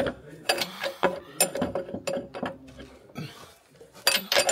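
Scattered metal clicks and clanks of hand tools working on the van's rear leaf-spring fittings, with a denser run of clicks about four seconds in.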